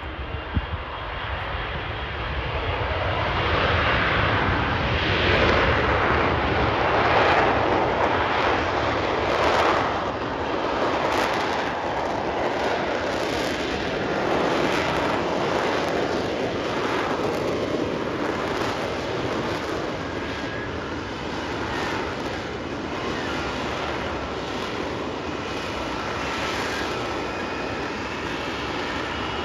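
F-35 jet fighter's single Pratt & Whitney F135 engine heard flying over: loud jet noise that swells over the first few seconds, is loudest a few seconds later, then stays loud and slowly eases.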